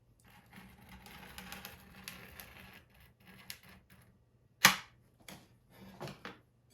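Glass cutter scoring a line across a sheet of scanner glass: an even scratchy hiss for about two seconds, followed by a few sharp clicks, the loudest about four and a half seconds in.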